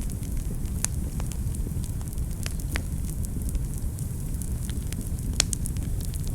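Wood fire burning in a fireplace: a steady low rumble of flames with scattered sharp crackles and pops, one louder pop about five seconds in.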